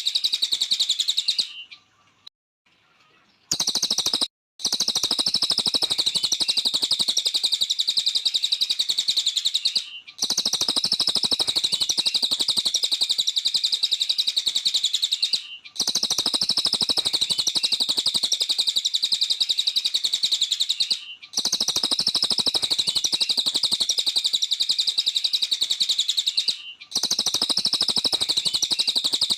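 Cililin songbird singing a continuous, very rapid chirping trill, in stretches of about five seconds broken by short pauses, with a couple of seconds of near silence shortly after the start.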